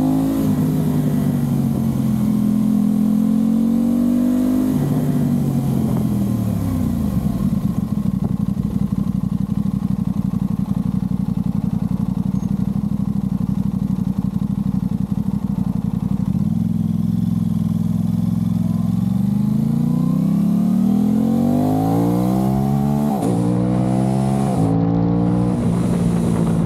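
Aprilia RS660's parallel-twin engine through a Mivv Delta Race exhaust, heard from on the bike: running steadily, then dropping in pitch as the bike slows and idling while stopped. It then accelerates away through the gears, rising in pitch with several sharp drops at the upshifts near the end.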